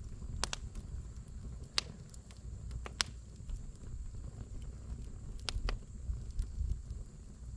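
Firewood burning in a campfire, crackling with a handful of sharp, irregular pops over a low rumble, the loudest pop about three seconds in.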